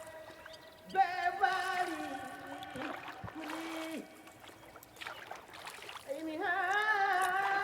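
A voice singing long, wavering held notes in two phrases, the first from about a second in to about four seconds, the second starting near the end.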